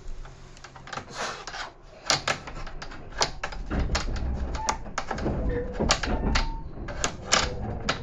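Irregular sharp clicks and knocks over the low rumble of a Tobu 10030 series commuter train, heard from inside the car; the rumble grows heavier about halfway through.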